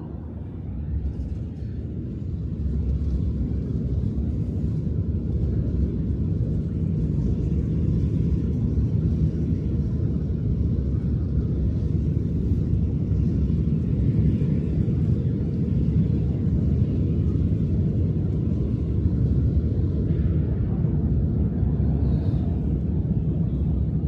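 A steady low rumble that builds over the first few seconds and then holds, with no distinct tone or rhythm.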